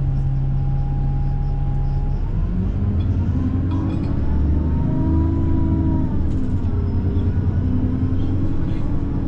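Bus engine and drivetrain heard from inside the vehicle: a steady low drone, then a whine that rises in pitch from about two seconds in as it speeds up, dips around the middle and rises again near the end.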